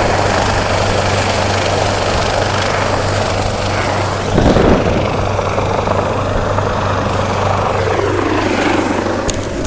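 Police helicopter hovering low, its rotor and turbine running steadily with a heavy rush of rotor noise; a louder rush about halfway through, and near the end a tone in its sound falls in pitch.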